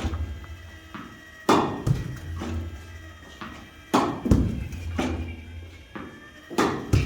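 Tennis ball struck with a racket on forehand shots, each sharp crack followed within half a second by a duller thud, three times at a steady pace about two and a half seconds apart.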